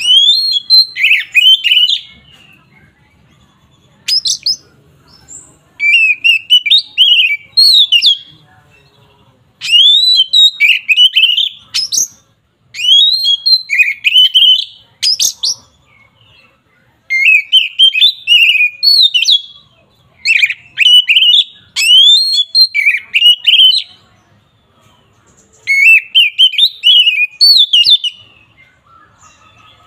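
Oriental magpie-robin (kacer) singing in the loud 'ngeplong' fighting style. It gives about nine bursts of rapid, varied whistled phrases, each a second or two long, with short pauses between them.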